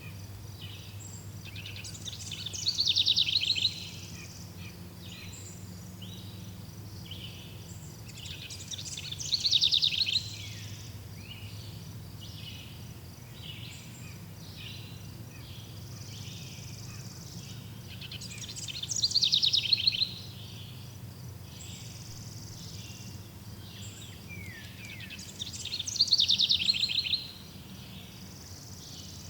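Forest birdsong: one bird repeats a loud, fast-trilled song phrase four times, each about a second and a half long. Softer chirps from other birds fill the gaps, over a low, steady background rumble.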